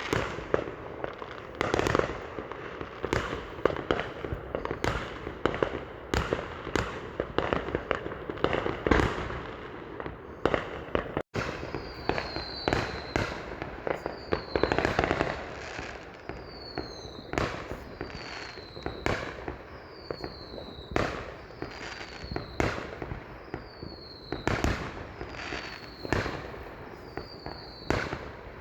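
Fireworks going off in quick succession: sharp bangs about one or two a second over crackling. After a brief gap in the sound about eleven seconds in, most bangs come with a short falling whistle.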